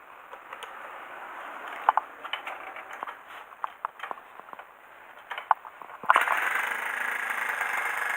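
Scattered mechanical clicks and scrapes, then about six seconds in the bored-up Honda Jazz's four-stroke single-cylinder engine catches all at once and keeps running steadily.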